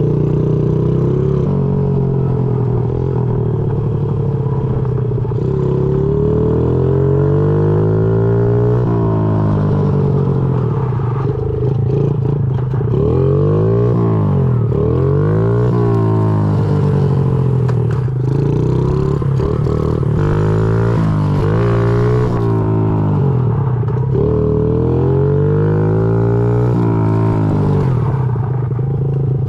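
A 2005 Honda CRF50 pit bike's small single-cylinder four-stroke engine running while ridden, its pitch rising and falling over and over as it revs up and eases off.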